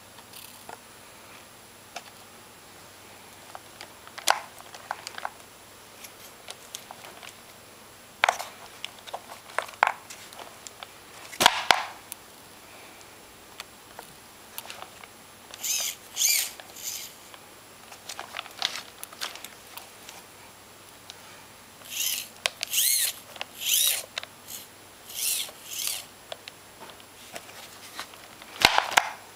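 Handling noises: scattered clicks and knocks, with several short rustling bursts near the middle and toward the end.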